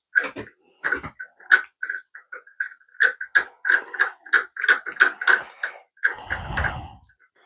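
Metal hand tools clicking and clinking against metal in a run of irregular sharp clicks, each with a short ringing tone, with a brief scraping rustle about six seconds in.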